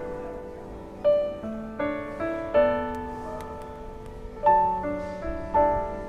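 Background piano music: a gentle melody of single and chorded notes, each struck and left to ring and fade.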